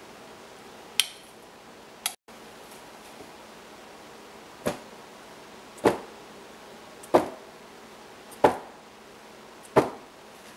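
Sharp knocks on a hard surface: two quick clicks in the first couple of seconds, then five hard knocks in a slow, even rhythm about a second and a quarter apart.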